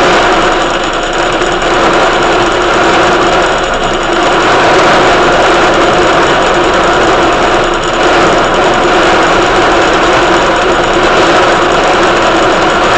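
A small engine running steadily, with a constant droning hum and no change in speed.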